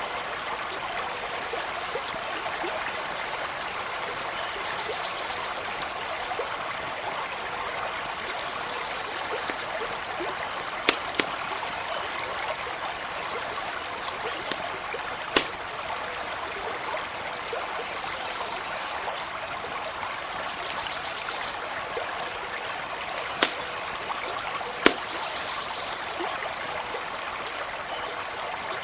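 A stream running steadily, with a crackling campfire: scattered small clicks and a few louder sharp pops, about four of them, in the second half.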